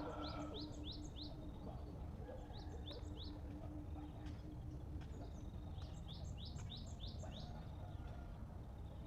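A small bird chirping outdoors: three quick runs of short, high chirps, about four notes, then three, then a longer run of about six near the end.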